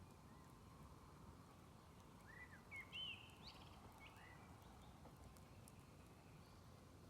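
A small bird calls one short burst of quick chirps about two and a half seconds in, over a faint steady outdoor hiss with a few faint ticks.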